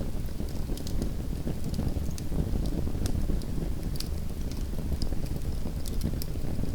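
Small wood fire burning in a fireplace: a steady low rumble of the flames with scattered sharp crackles and pops.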